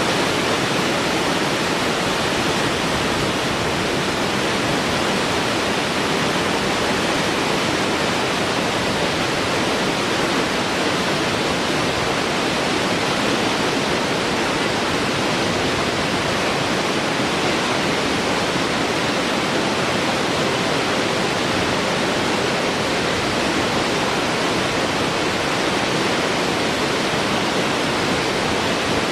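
Steady, even rushing noise that starts abruptly and holds constant, like a waterfall or pink noise.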